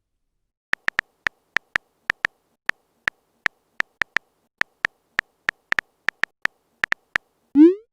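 Phone keyboard typing sound effect: short, light clicks at an uneven pace of about three a second. Near the end comes a brief rising swoosh, typical of a message being sent.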